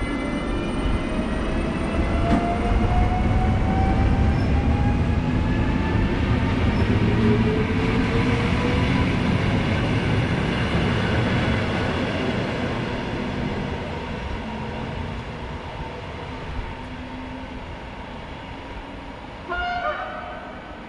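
Passenger train running through the station, a heavy rumble of wheels on rails with a rising whine, building then slowly fading. About a second before the end comes a short train horn blast.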